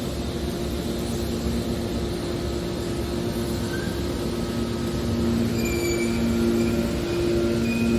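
Hydraulic metal baler running: a steady machine hum with two constant low tones, getting a little louder about five seconds in, with a few faint high squeaks near the end.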